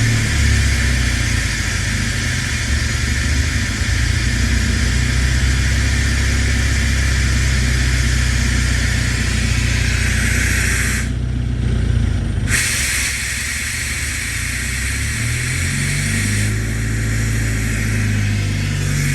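An engine running steadily, with a loud steady hiss over it that stops for about a second and a half past the middle, then comes back fainter near the end.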